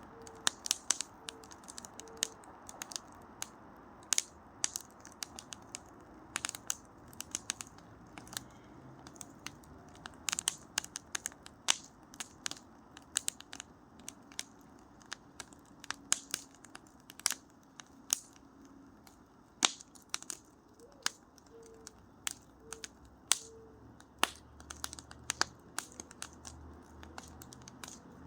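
Wood fire crackling slowly: irregular sharp pops and snaps, a few a second at most, over a low steady background.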